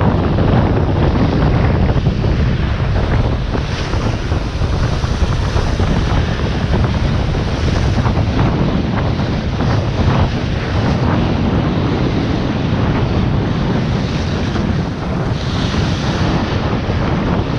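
Strong wind buffeting the microphone, with surf washing onto the shore underneath, steady throughout.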